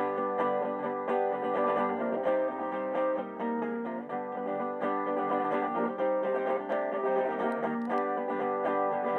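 Guitar played alone as the song's instrumental outro: plucked notes picked over ringing chords, with no singing.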